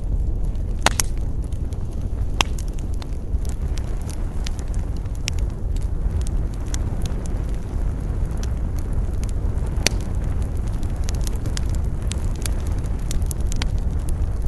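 Wood campfire crackling, with frequent sharp pops at irregular intervals over a steady low rumble of wind.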